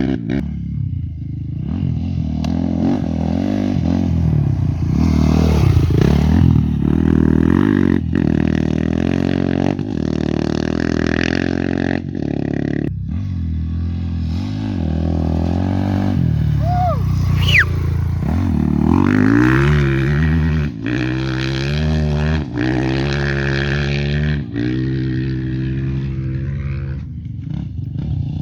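Off-road race motorcycle engines running hard, the pitch repeatedly rising and falling as they rev and shift. A short high whistle sounds about halfway through.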